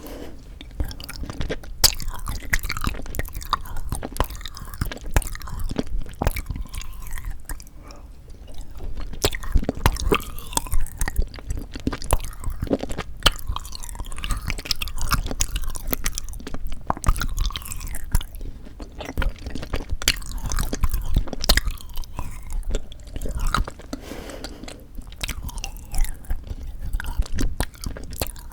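Close-miked chewing of frozen sweet red bean jelly (yanggaeng): a dense, irregular run of short mouth clicks and smacks as the jelly is bitten and worked in the mouth.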